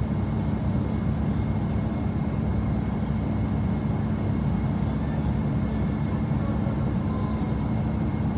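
Steady low rumble of a moving vehicle, even throughout with no change in pitch.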